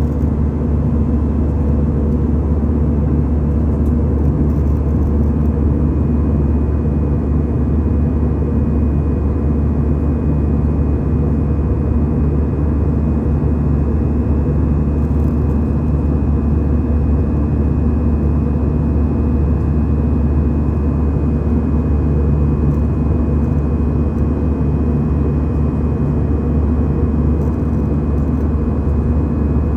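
Steady drone of a jet airliner heard from inside the passenger cabin: engine and airflow noise, deep and constant, with a faint thin high tone joining about five seconds in.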